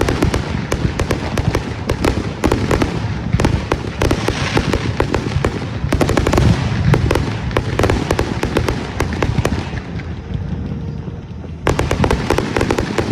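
Consumer fireworks going off in a dense barrage: rapid overlapping bangs and crackling. It thins out about ten seconds in, then a fresh volley of reports starts near the end.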